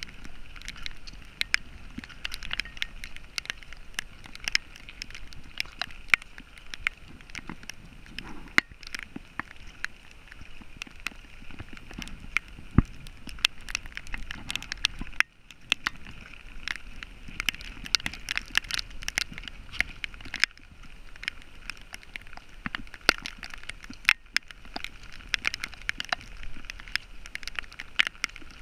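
Rain pattering close on the microphone in dense, irregular crackling taps over a steady hiss.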